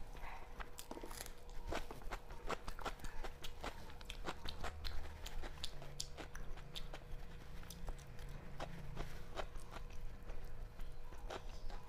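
Close-up eating sounds from someone eating rice and chicken curry by hand: chewing and lip smacks, with many small irregular clicks as fingers work the food on a metal plate.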